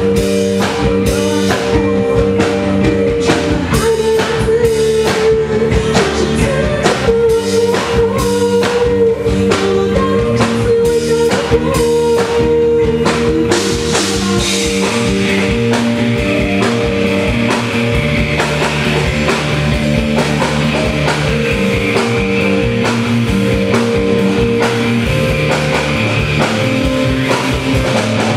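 Live rock band playing a song, with a drum kit keeping a steady beat under sustained instrument notes and singing.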